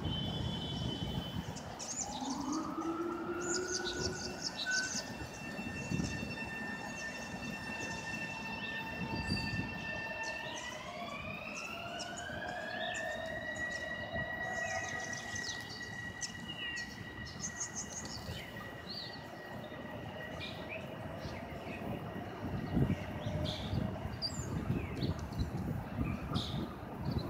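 Electric train's traction motors whining as it pulls through the station, several steady tones that step upward in pitch together as it gathers speed, over rumbling wheel and track noise.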